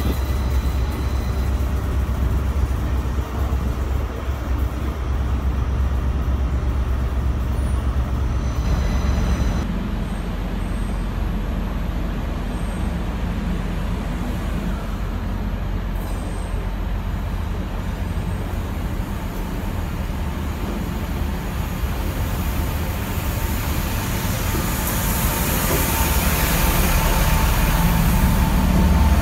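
Passenger trains moving through a station platform: a steady low rumble of train engines and wheels, with a rising hiss in the last few seconds as a train draws past close by.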